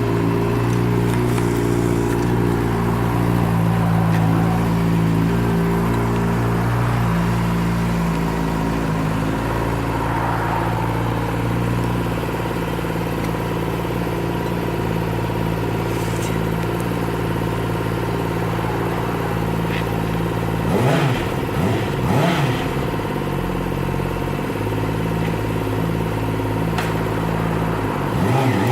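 Motorcycle engine running at a steady idle, its pitch stepping up and down a few times, with a couple of quick revs about three quarters of the way through.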